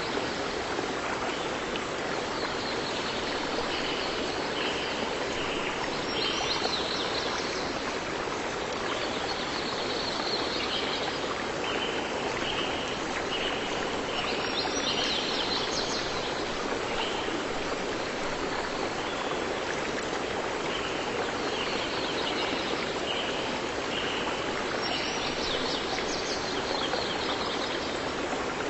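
Steady rush of flowing stream water, with a bird singing over it. The bird repeats a phrase of short high notes ending in a higher flourish roughly every nine to ten seconds.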